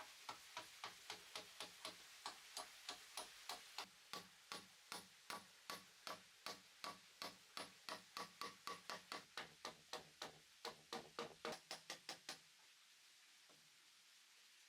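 Rapid, even hammer strikes on wood, about three a second, coming slightly faster toward the end and stopping about twelve seconds in.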